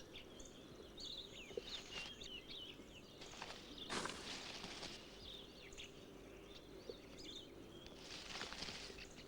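Forest ambience of small birds chirping and twittering, with a few brief rustling bursts about two, three and a half, four and eight and a half seconds in.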